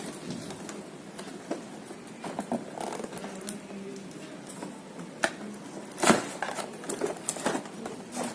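Speaker box and its packaging being handled and opened: scattered clicks, taps and rustles, with a louder burst of rustling about six seconds in.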